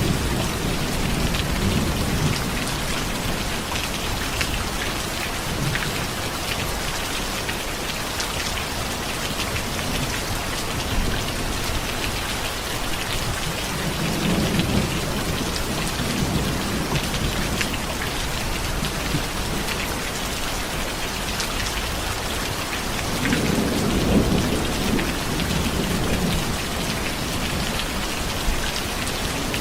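Steady heavy rain pattering on a surface, with low rolls of distant thunder rumbling twice, about halfway through and again near the end.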